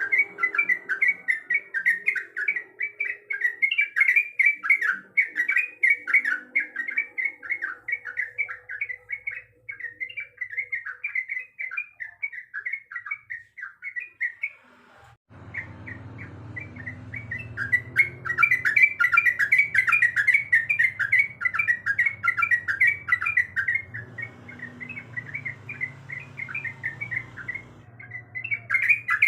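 Yellow-vented bulbul (trucuk) singing fast, chattering phrases almost without pause, breaking off briefly about halfway.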